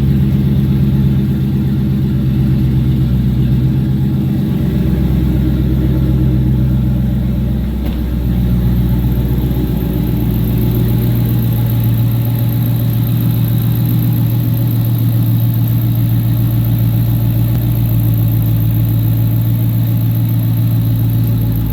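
2019 Dodge Scat Pack's 392 HEMI V8 idling steadily after a cold start, warming up, with a slight shift in its idle note about eight seconds in.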